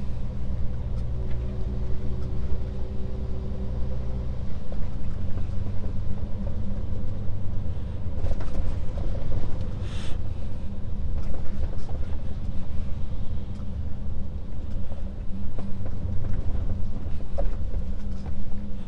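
Scania S500 truck's engine running, heard inside the cab as a steady low drone whose note shifts about four and a half seconds in, with occasional faint knocks and a brief hiss about ten seconds in.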